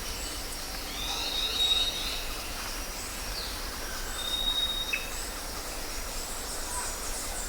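Birds calling outdoors: thin, high whistled notes held about a second each and a few short downward-sliding calls, over a steady background hiss.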